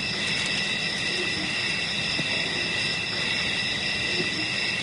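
Steady insect chorus: several high, unbroken tones layered together, running on without a pause.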